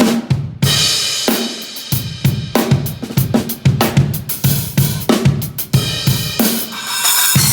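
Acoustic drum kit played in a sound check: kick, snare and hi-hat strokes in quick succession, with crash cymbal hits about half a second in and again near six seconds, each left ringing.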